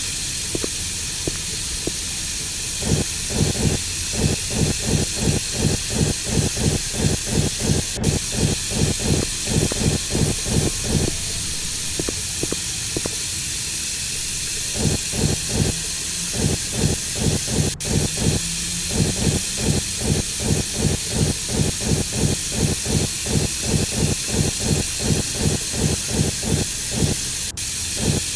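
Girbau HS4012 commercial washing machine running a wash: a steady water hiss with a rhythmic low churning of about three pulses a second, which pauses for a few seconds midway and then resumes.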